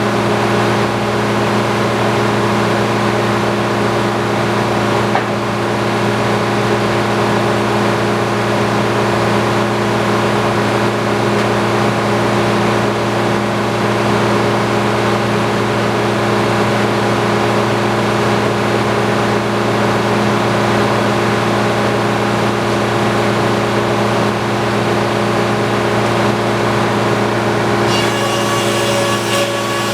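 Antique circular sawmill running steadily at speed, a constant mechanical hum and drone. Near the end, higher ringing tones come in as the saw begins to cut into the log.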